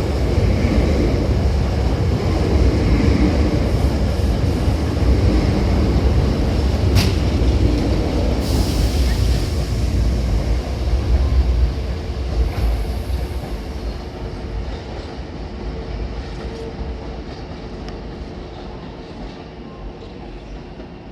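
Hankyu electric train running past a platform, a loud low rumble with a sharp click and a short hiss about midway, then fading away over the last several seconds.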